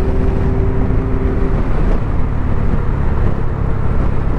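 Motorcycles on the move, heard from a helmet-mounted camera: steady wind rush over the microphone mixed with engine noise. A held engine tone fades out about one and a half seconds in.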